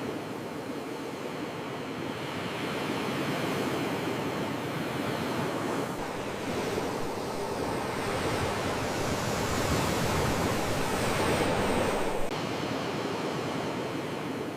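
Ocean waves washing on the shore, a steady surf noise that swells louder over several seconds and then drops off suddenly about twelve seconds in.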